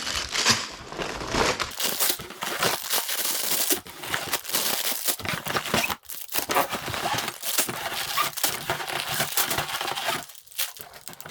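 Packaging crinkling and tearing as a LEGO set's box is opened and its contents handled: a dense run of rustling and crackling, dying down near the end.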